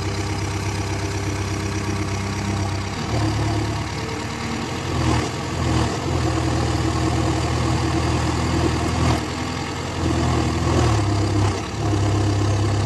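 Diesel engine of a JCB 5CX backhoe loader running steadily, its note stepping up and down repeatedly as the machine is worked. A few brief clunks are heard along with it.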